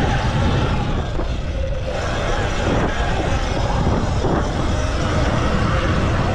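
Stage 2 M1 full-electric motocross bike being ridden hard: an electric motor whine that shifts up and down in pitch with the throttle, over heavy low rumble from wind and track noise.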